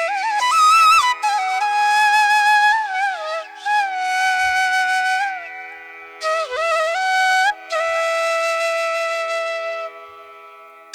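Background flute music: a slow solo melody of long held notes with sliding, bending pitches, over a steady low drone. The melody pauses briefly a few times between phrases.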